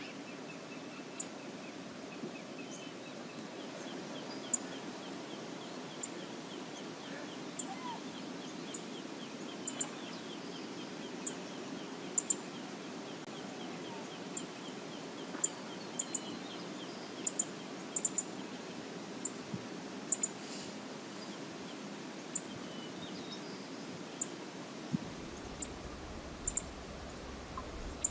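Steady rush of river water with birds calling over it: one bird gives a long run of quick, evenly spaced notes lasting about ten seconds, and sharp, very high chips come every second or so.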